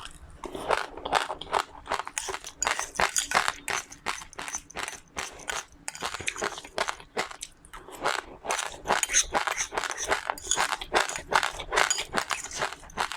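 A person chewing crunchy seeds: a dense, irregular run of crunches and crackles, many to the second.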